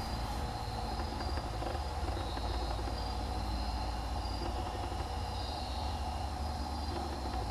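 Night-time outdoor ambience: short high chirps, about one or two a second, over a steady low rumble and a constant mid-pitched drone.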